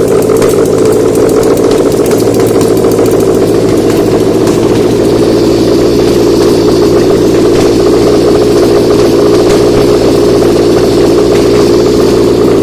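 Subaru EJ203 2.0-litre flat-four boxer engine running steadily at idle while it is test-run on a bench stand.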